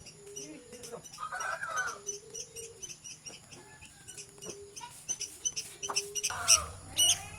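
Young white-breasted waterhen (ruak-ruak) chicks peeping over and over with short, high calls and a few lower chirps. The calls grow louder near the end.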